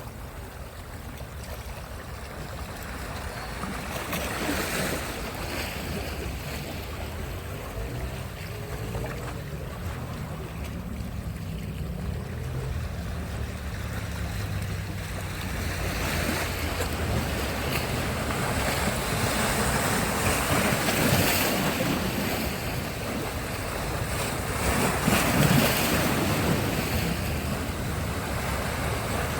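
Sea surf breaking and washing up on a beach, swelling louder several times as waves come in, with wind buffeting the microphone. A faint low hum runs for a few seconds in the middle.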